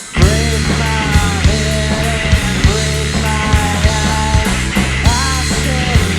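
Live three-piece rock band, with electric guitar, bass and drums, playing a loud, distorted punk/grunge-style song. The band comes crashing in just after a brief drop at the start, with bending guitar notes over steady drum hits.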